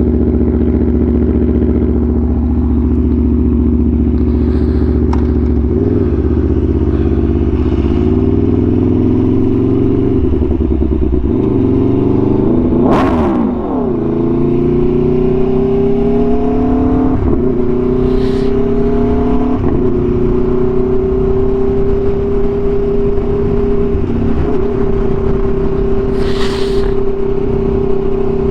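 Aprilia Tuono V4 1100's V4 engine through an SC-Project exhaust, ridden on the road. It cruises steadily, then its note dips and climbs through several gear changes in the middle, with a brief whoosh about halfway through, before settling into a steady cruise.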